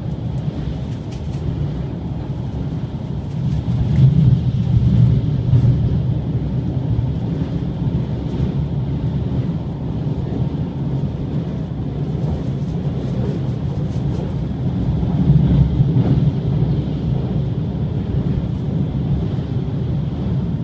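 Limited express train running at speed across a steel truss bridge, heard from inside the passenger cabin: a steady low rumble that swells twice, about four seconds in and again about fifteen seconds in.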